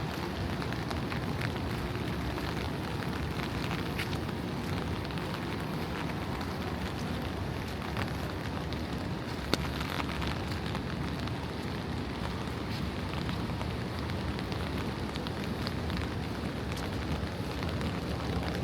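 Steady rain falling on wet city pavement, with scattered sharp drip ticks and one louder tap about nine and a half seconds in.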